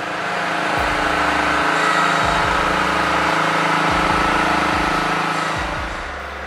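A vehicle engine running steadily. It grows louder about a second in and eases off again near the end, as if a large truck passes close by.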